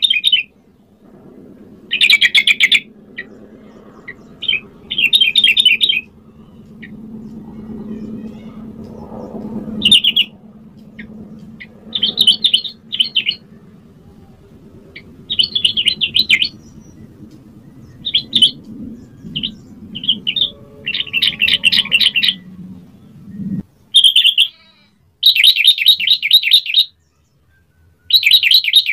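Yellow-vented bulbul singing: a series of short, quick, bubbly phrases repeated with brief pauses between them. A faint low hum underneath stops suddenly about three-quarters of the way through.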